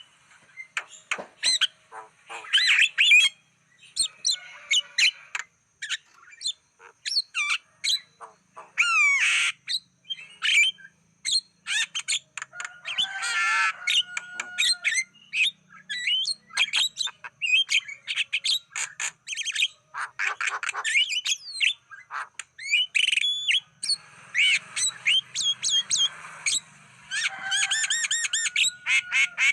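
Javan myna singing a long, varied string of whistles, chirps and harsh squawks in quick succession, with short gaps.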